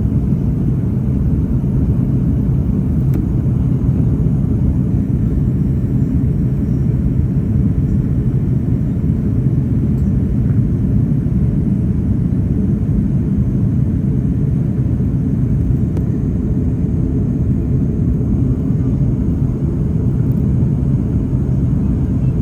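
Steady low rumble of an airliner in descent, engine and airflow noise heard from inside the passenger cabin.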